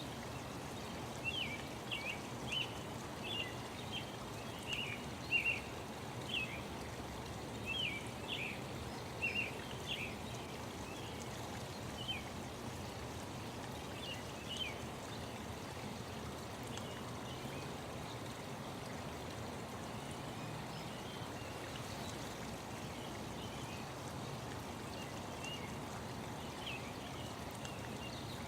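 Small birds chirping in short, quick calls over a steady rushing background. The calls come often in the first half and grow sparse and faint later on.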